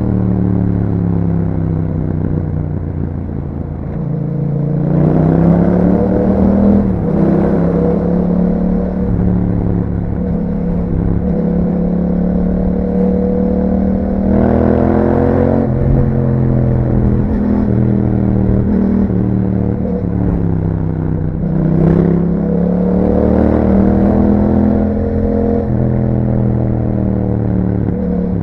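Yamaha MT-07's 689 cc parallel-twin engine through an Akrapovic aftermarket exhaust, being ridden with the revs rising and falling repeatedly as the throttle is opened and eased off. The engine note climbs sharply about 5 seconds in, again around 15 seconds and again about 22 seconds in.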